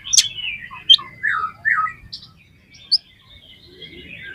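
Oriental magpie-robin (kacer) singing a varied song of loud whistled phrases and sharp chirps, with several down-slurred notes. It goes quiet briefly in the middle, then the song resumes near the end.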